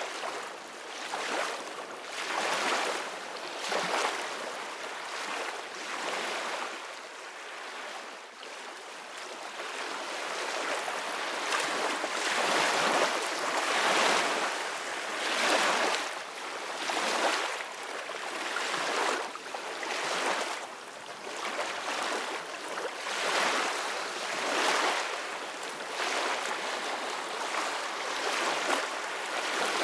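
Small ocean waves washing in: a rushing hiss that swells and falls every second or two, easing off for a few seconds about a third of the way in.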